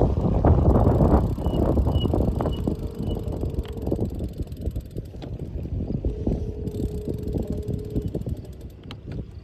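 Wind buffeting the microphone and road rumble from a moving bicycle, easing off toward the end. A faint steady hum comes and goes twice in the middle.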